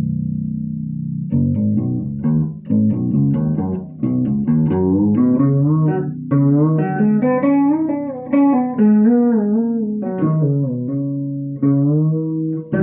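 Fretless six-string bass guitar being played: a held note rings out, then a melodic phrase of plucked notes, some sliding between pitches and some with vibrato.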